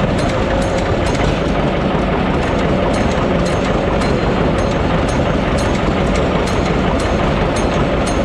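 John Deere 720 diesel tractor's engine running steadily and loudly, with a regular light ticking over the engine sound.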